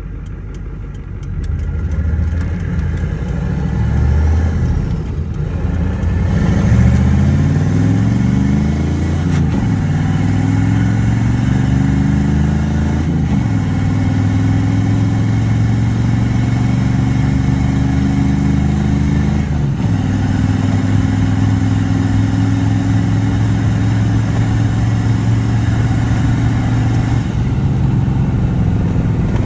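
IDI diesel truck on nitrous accelerating hard. The engine pitch rises through the gears, with shifts about 9, 13 and 20 seconds in, then holds nearly steady and drops as the throttle eases near the end.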